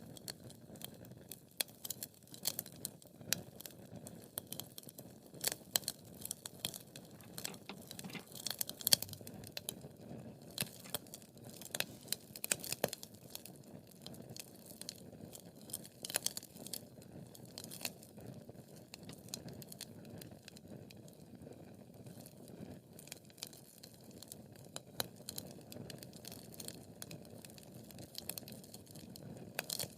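Wood fire in a fireplace crackling, with frequent irregular sharp pops and snaps over the low steady rush of the flames.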